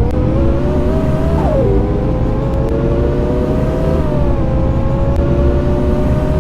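Scania K230UB Euro 5 city bus with Voith automatic gearbox under way, heard on board: the engine and drivetrain drone pulls up through a gear, drops in pitch at an upshift about a second and a half in, then holds a steady note as the bus runs on.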